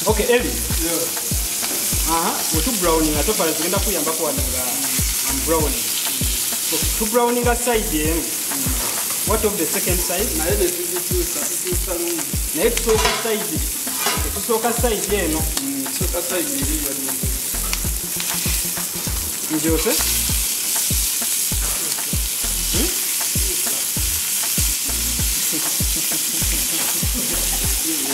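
Chicken pieces frying in hot oil in a pan, sizzling steadily, while a wooden spatula stirs and turns them.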